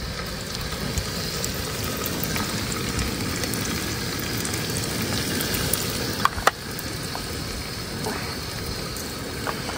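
Tomato masala steadily sizzling in oil in an open pressure cooker on a portable gas stove while spice powders are added. A couple of sharp clicks about six seconds in.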